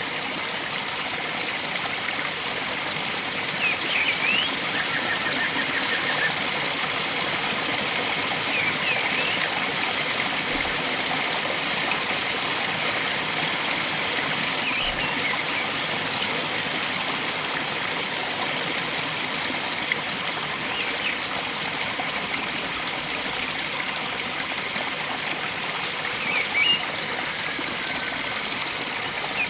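A stream flowing steadily, with short bird chirps breaking in every few seconds.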